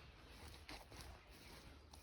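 Near silence: a low background rumble with a few faint, scattered taps.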